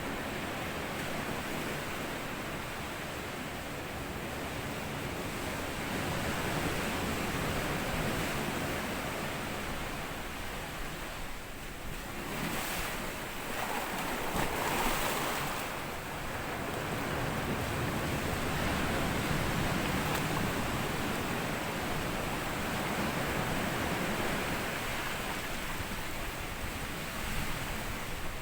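Small sea waves breaking and washing up over a sandy beach, a continuous wash that swells and eases, with one louder wave about halfway through.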